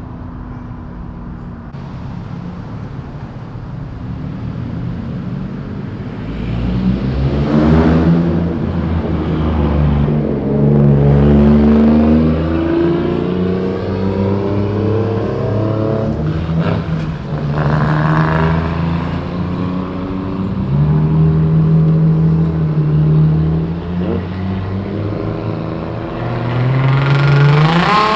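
Loud aftermarket car exhaust with a deep engine rumble. The revs rise and fall several times, then climb sharply near the end as the car accelerates.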